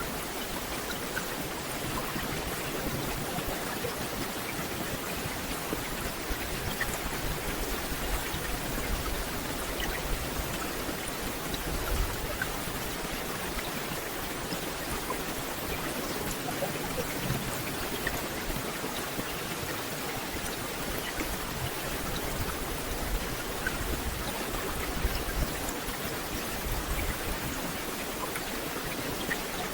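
Steady rain falling on a dense forest canopy: an even hiss of water with many small scattered drop ticks, and a few brief low swells underneath.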